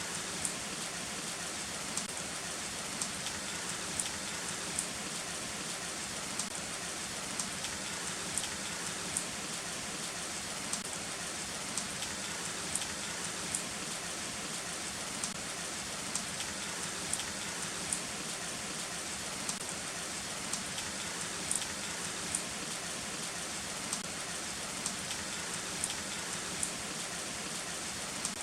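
Heavy rain falling steadily, a dense even hiss with sharp individual drop hits ticking through it, about one or two a second.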